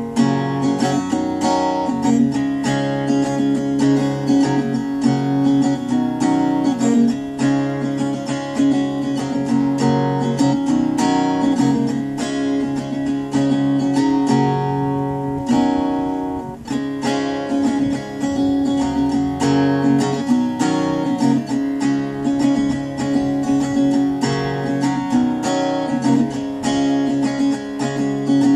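Acoustic guitar played solo, strummed and picked in a steady run of chords and single notes, with no singing.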